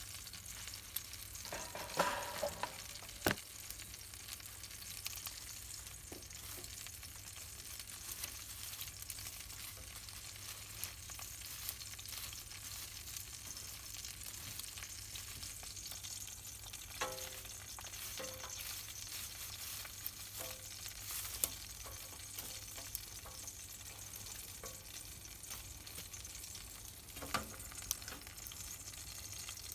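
Steady crackling and sizzling from a wood campfire roasting pork, with a few sharp knocks and clicks scattered through it.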